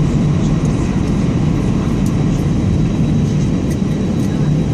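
Steady low rumble of engine and airframe noise inside the passenger cabin of an Airbus A320 on the ground just after landing, with a faint steady whine above it.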